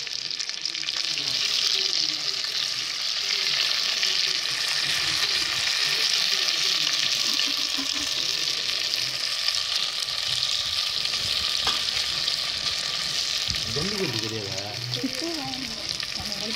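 Marinated chicken 65 pieces deep-frying in hot oil in a pot, with a steady sizzle.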